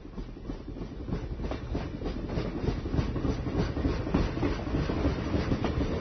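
Train rolling along the rails, its wheels clacking rapidly over the track over a low rumble, growing steadily louder as it approaches.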